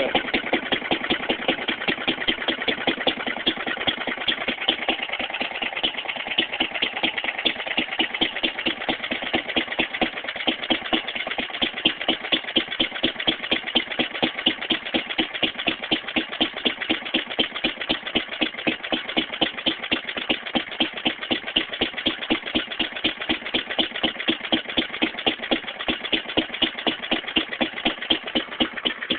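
Fairbanks-Morse Z Style D 1½ hp hit-and-miss stationary engine running steadily, a quick, even train of exhaust beats.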